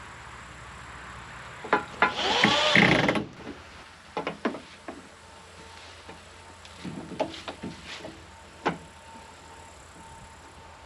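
Hand-work knocks and clicks from a wooden mirror frame being built. About two seconds in there is a louder burst of about a second whose pitch bends up and down, like a tool briefly running, and after it come scattered light clicks and knocks.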